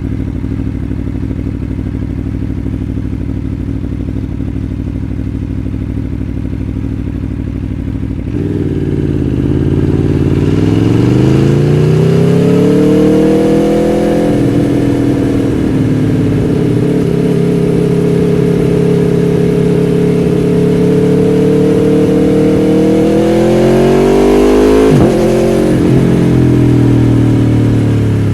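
Aprilia Tuono V4 1100 Factory's V4 engine idling steadily for about eight seconds, then pulling away: the revs climb, drop at a gear change, hold steady while cruising, then climb again and drop sharply at another shift.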